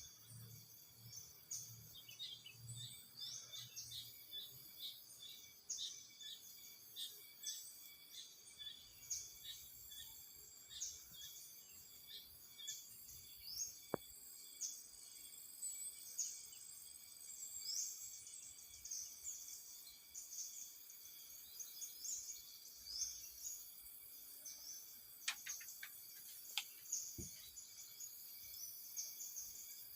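Jungle ambience: many short high bird chirps repeating throughout over a steady insect drone. A single sharp click about halfway through.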